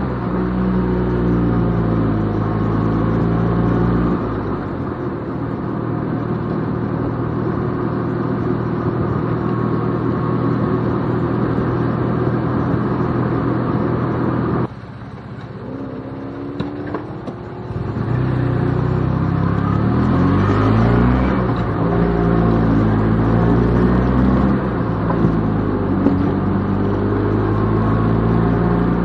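Cabin sound of a 1972 Fiat 500's small air-cooled two-cylinder engine driving the car, its pitch rising and falling with gear changes. The sound drops abruptly about halfway through and stays quieter for about three seconds, then the engine climbs through the revs again.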